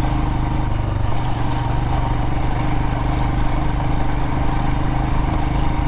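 Adventure motorcycle engine running at steady low revs.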